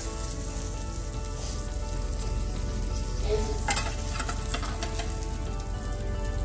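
Food frying in a pan: a steady crackling sizzle of hot oil and fat.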